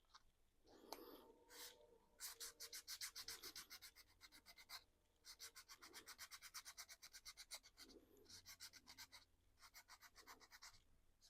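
Faint, quick scratching strokes on a painted 3D-printed plastic RC car body, about eight a second, in three runs of a couple of seconds each.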